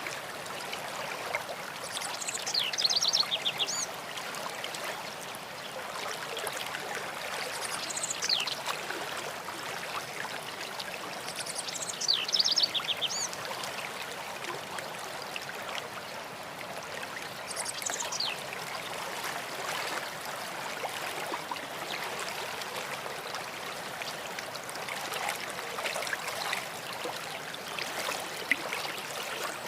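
A stream running steadily, with a songbird singing short phrases of quick repeated notes and downward-sliding whistles about four times, each a few seconds apart, and more faintly near the end.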